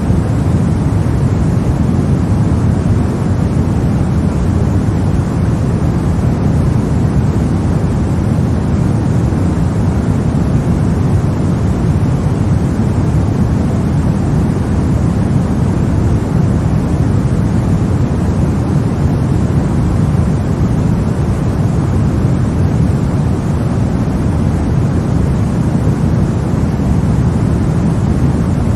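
Steady, unchanging white noise for a baby's sleep, weighted toward the low end, a deep even hiss with no changes or events.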